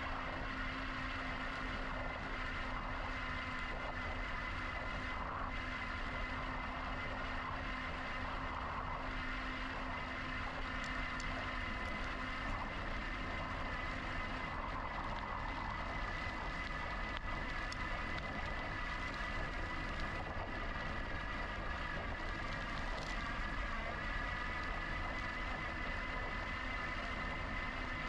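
Steady riding noise from an electric bike in motion: a constant low rumble of tyres and air over the handlebar-mounted camera, with a faint steady high whine above it.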